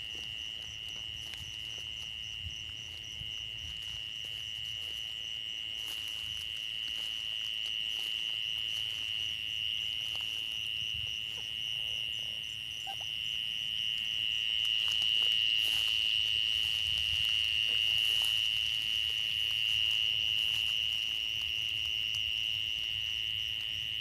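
Night chorus of insects and frogs: a continuous, steady high-pitched trill with a faster pulsing shimmer above it, swelling a little around the middle.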